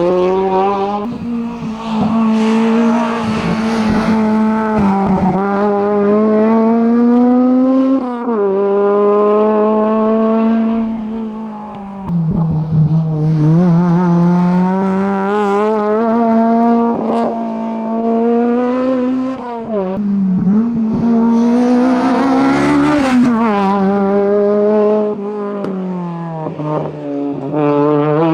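Racing car engine running hard up a hillclimb course, revs climbing and then dropping sharply several times as it shifts gears and lifts for corners.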